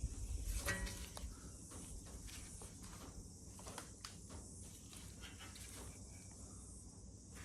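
Faint scattered clicks and light knocks over a steady low hiss, fading slightly after the first second.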